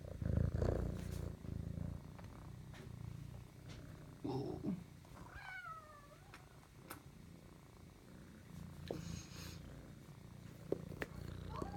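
Kitten purring, a steady low rumble, with a short gliding call about five seconds in.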